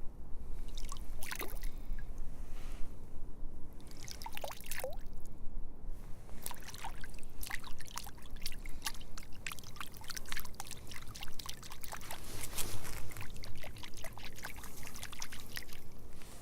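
Water trickling and splashing, with many irregular drips and a few short bubbling plinks.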